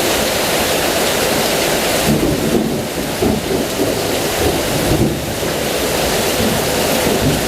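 Heavy rain falling steadily, with a low rumble of thunder rolling through from about two seconds in.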